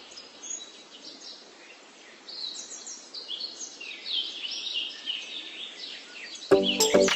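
Small birds chirping, many short quick twitters over a faint hiss. Music comes in near the end.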